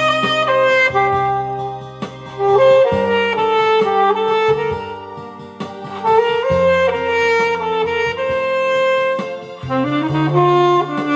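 Alto saxophone playing a slow, lyrical song melody in long held notes over a backing track with bass and chords.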